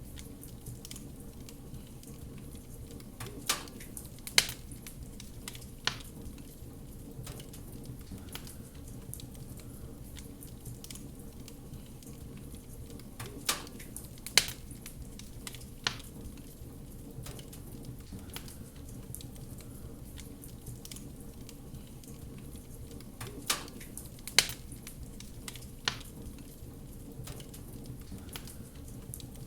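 Fireplace fire crackling: a steady low hiss and rustle with sharp, loud pops that come in groups of three, the same pattern repeating about every ten seconds.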